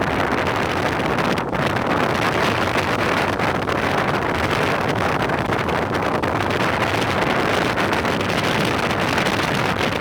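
Strong wind over rough sea, buffeting the microphone in a loud, steady rush.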